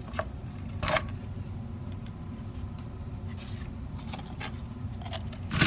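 Small tools and parts handled on a jeweler's workbench: a few light clicks, taps and short scrapes over a steady low hum, with the loudest knock near the end.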